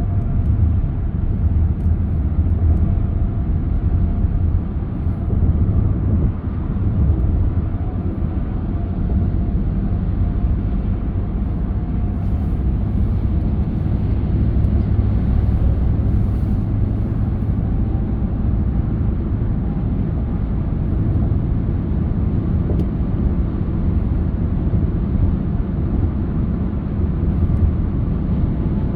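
Car driving at a steady pace: a constant low rumble of road and engine noise with no changes.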